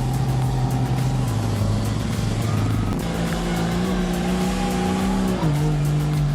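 Off-road truck engine running hard under load, its pitch stepping down and back up as it works, mixed with steady background music.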